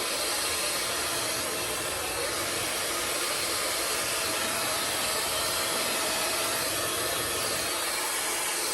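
High-speed hair dryer with a brushless motor running steadily, a constant rush of blowing air with a faint motor whine.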